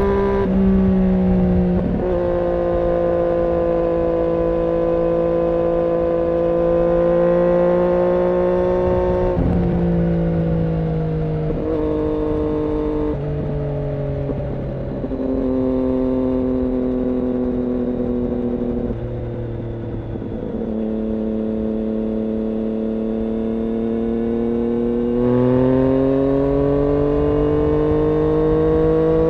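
2006 Triumph Daytona 675's three-cylinder engine through an IXIL aftermarket exhaust, running at high revs. The pitch holds steady for a few seconds at a time, then steps up or down about eight times, with slow rises and falls in between.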